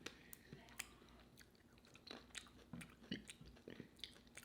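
A person chewing food close to the microphone: soft, irregular wet mouth clicks and smacks.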